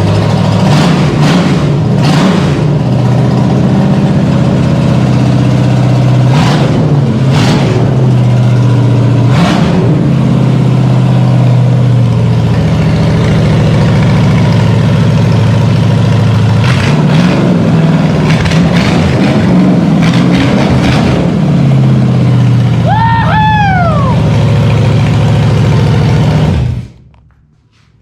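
Small-block Chevy V8 running out of the vehicle, revved several times, with sharp cracks from the exhaust in the first ten seconds as it is run rich to spit flames. A brief high falling squeal comes near the end, and the engine shuts off suddenly just before the end.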